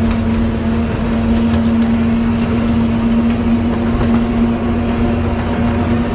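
A vehicle engine running steadily, a constant droning hum with a low rumble underneath.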